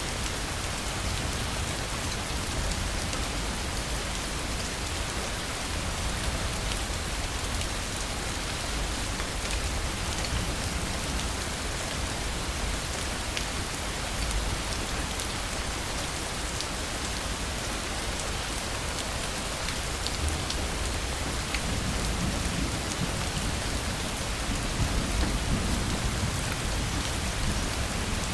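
Heavy, steady rain falling, with low rolling thunder rumbling up in the last several seconds.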